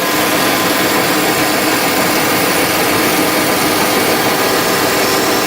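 Milling machine running steadily: a continuous machine noise with several steady tones.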